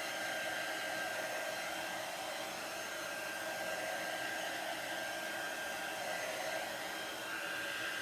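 Handheld hair dryer blowing steadily on a wet chalk-paste transfer to dry it, with a faint steady whine over the rush of air.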